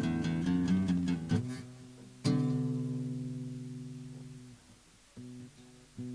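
Acoustic guitar playing an instrumental: quick picked notes at first, then a single chord struck about two seconds in and left to ring and fade away, then a couple of soft notes near the end.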